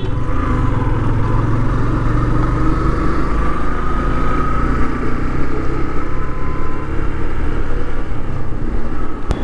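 Yamaha Fazer motorcycle being ridden along the road, its engine running steadily under a continuous rush of road and wind noise.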